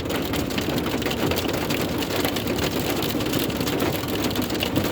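Heavy rain mixed with hail pelting down: a dense, steady hiss with many sharp ticks of hailstones hitting.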